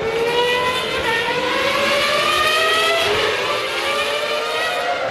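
Formula One car's V10 engine at full throttle, its pitch climbing and briefly dropping back twice as it shifts up through the gears.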